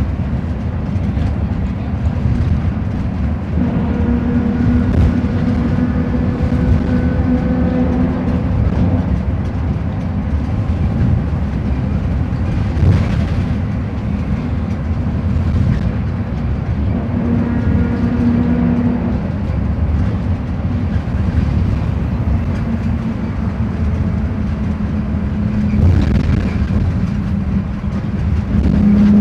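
Mercedes-Benz OF-1721 BlueTec 5 bus's diesel engine running as the bus drives: a steady rumble with a humming tone that swells and fades a few times. A few brief knocks come through along the way.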